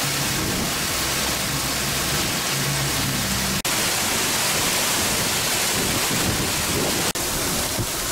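Heavy rain mixed with small hail pouring down onto pavement, a steady loud hiss, with a low hum beneath it for the first few seconds. The hiss drops out for an instant twice.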